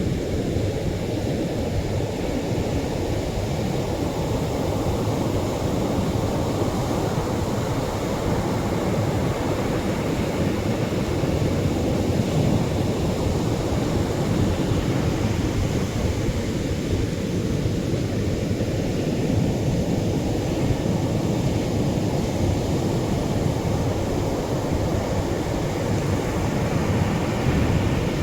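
Atlantic surf breaking gently on a sandy shore: a steady rushing wash of waves, strongest in the low range, swelling and easing slowly over several seconds.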